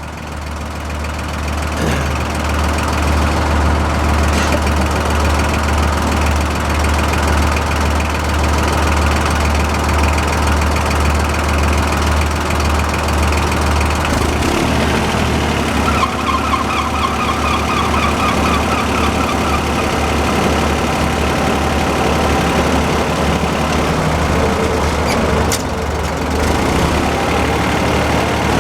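Engines of a sawmill setup running steadily near idle: a low, even engine drone that grows louder over the first couple of seconds. A higher, rapidly repeating chirping sound joins in for a few seconds a little past the middle.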